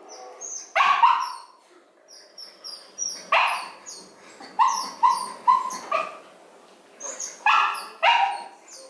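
Six-week-old puppies yipping and barking: many short, high-pitched yips, some in quick runs, mixed with a few louder barks.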